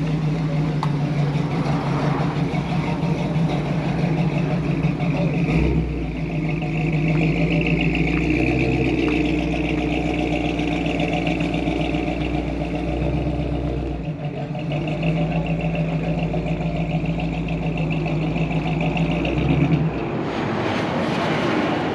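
Car engine running steadily, with a deeper low rumble that swells in and drops away a couple of times.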